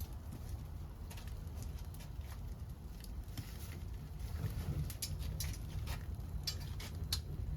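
Wood fire crackling, with scattered sharp pops that come more often in the second half, over a low steady rumble.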